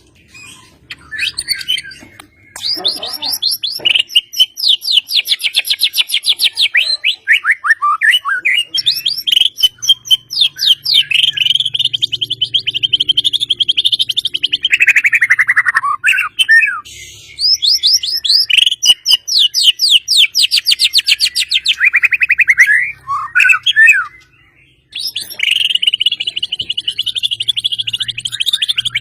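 White-rumped shama (murai batu) singing long, fast trilled phrases of rapidly repeated notes that sweep up and down in pitch, broken by a couple of short pauses.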